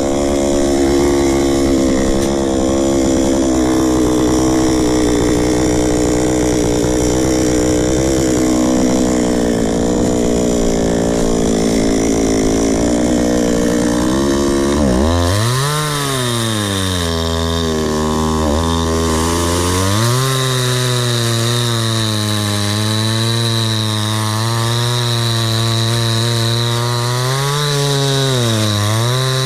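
Two-stroke chainsaw cutting firewood: for about the first fifteen seconds its engine runs at a steady, lower pitch under load. Then the revs shoot up and drop back, and from about twenty seconds in it runs at a higher, steady pitch with two brief dips in speed.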